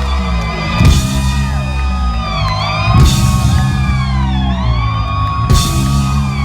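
Live rock band holding out a closing chord: electric guitar wailing with bends and dives over a sustained low bass note, with loud drum-and-cymbal crashes about a second in, at three seconds and again near the end.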